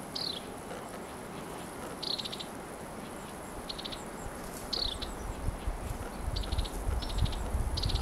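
Small birds calling: short, rapid high trills repeated every second or two, with two quick down-slurred notes, one at the start and one near the middle. A low rumbling noise swells in the second half.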